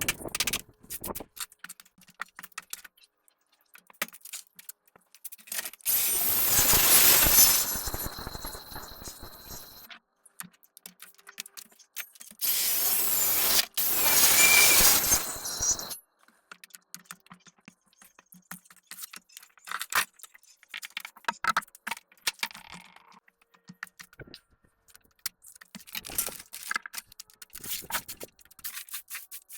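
Scattered knocks, taps and clatter of demolition work on a boat's rotten wooden flooring and seating, broken twice by a loud, steady noisy run of about four seconds that stops abruptly.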